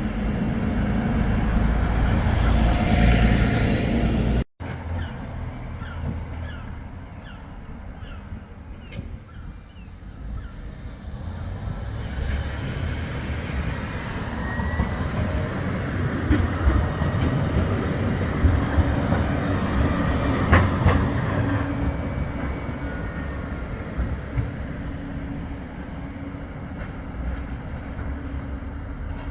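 Bombardier Flexity 2 tram running along street track, its rumble building and then easing off. Before it, about four and a half seconds in, a louder vehicle rumble cuts off sharply.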